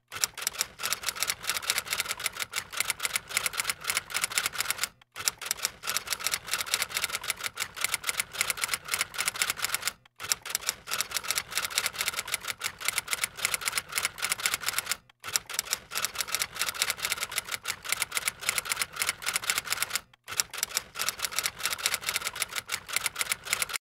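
Typewriter keys clacking in fast, continuous keystrokes, a typing sound effect laid over text being typed out, breaking off for a moment about every five seconds.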